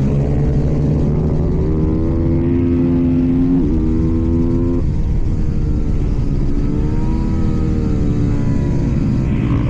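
KTM supermoto motorcycle engine running hard at racing speed, its pitch climbing and falling, with sudden jumps in pitch around three and a half and five seconds in as the gears change.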